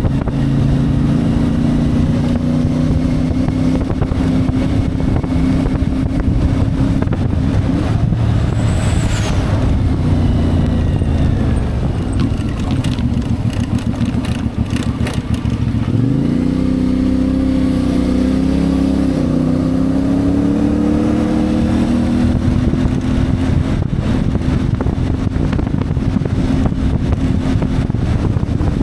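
CF Moto 450MT's parallel-twin engine running under way. About halfway through the rider eases off and the note drops, then the engine revs up again with a rising pitch and holds at speed.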